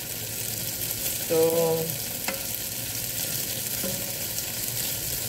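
Tofu cubes sizzling in hot oil in a nonstick pan as a spatula stirs them, with a single light click about two seconds in.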